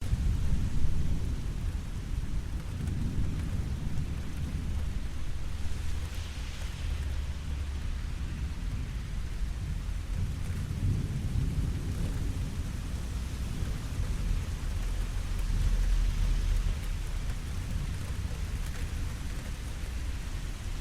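Steady rain falling, with low rumbles of thunder swelling and fading several times underneath.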